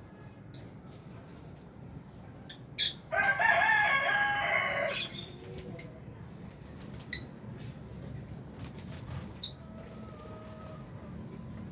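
Lovebirds giving short, sharp, high chirps, five or six scattered through, the last one about nine seconds in being the sharpest. About three seconds in comes a louder drawn-out call lasting about two seconds, the loudest sound here.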